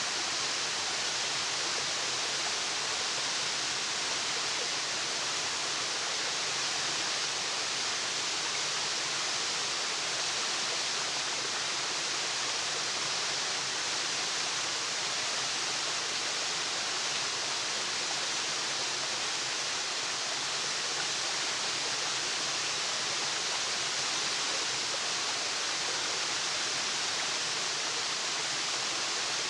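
Waterfall: water falling and splashing in a steady, unbroken hissing rush.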